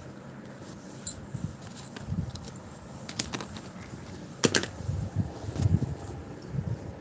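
Cats scuffling at play: scattered light clicks and jangling ticks with soft thumps, and one sharper click about four and a half seconds in.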